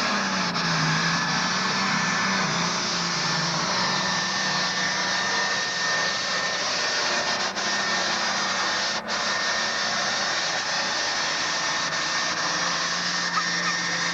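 Allis-Chalmers 190 super farm pulling tractor's engine running wide open under heavy load as it drags the weight-transfer sled down the track. The engine holds a steady pitch, with a thin high whistle over it.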